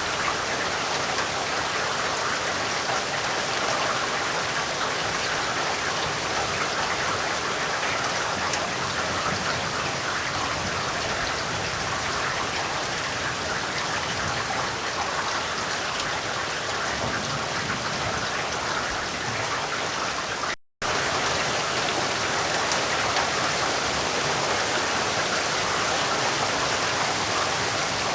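Steady rain falling, an even hiss of many drops, with a split-second dropout to silence about three quarters of the way through.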